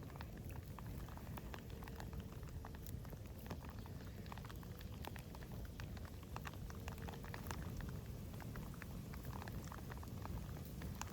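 Campfire crackling: many irregular sharp snaps and pops over a low steady rumble.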